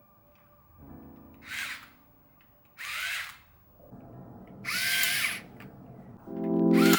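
Small electric kitchen-appliance motor run in four short bursts of about half a second each; the third burst is the longest. Soft background music plays underneath.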